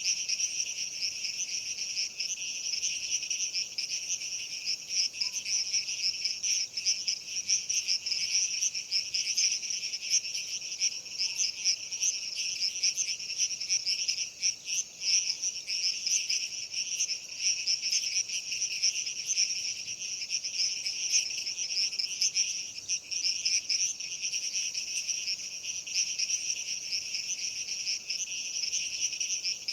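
Steady night chorus of many crickets chirping, a dense, shrill, rapidly pulsing trill that never stops.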